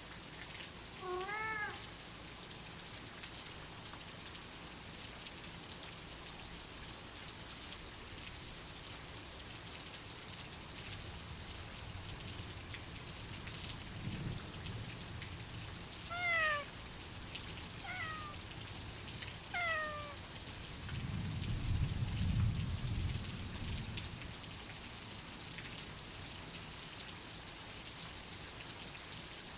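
Steady heavy rain with a cat meowing: once about a second in, then three short meows just past the middle. A low, soft rumble of thunder swells twice, strongest a few seconds after the meows.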